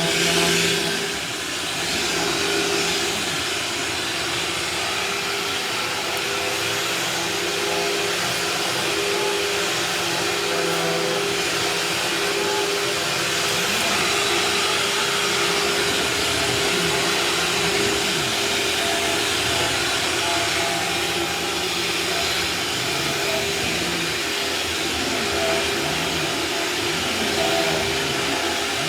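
Vacuum cleaner running steadily: a constant motor hum under rushing air noise.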